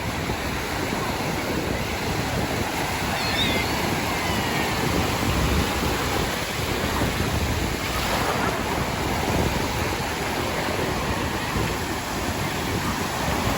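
Ocean surf, waves breaking and washing up the beach in a steady rush of noise that swells a little now and then.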